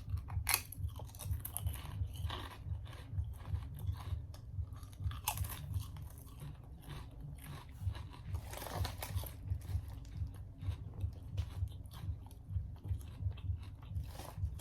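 A person chewing crisp Lay's potato chips close to the microphone, with steady rhythmic chewing and sharp crunches as the chips break.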